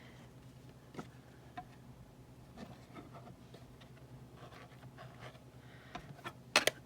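Faint scattered clicks and taps of small paper-crafting pieces being handled on a work surface, with a sharper double click near the end, over a low steady hum.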